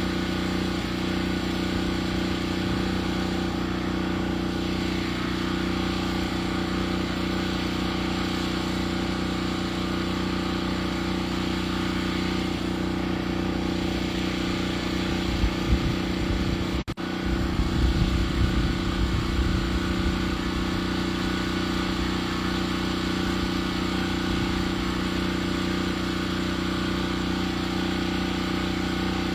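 Engine of a lumber-milling sawmill running at a steady speed. Low thumps and rumbling come in about sixteen seconds in, and the sound cuts out for an instant.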